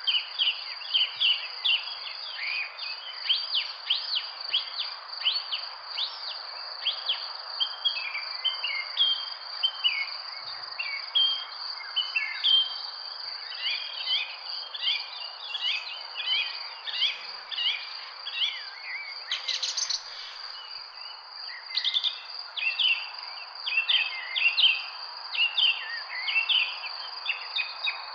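Many small birds chirping and calling rapidly and continuously over a steady, high-pitched insect drone. One brief, louder call stands out about twenty seconds in.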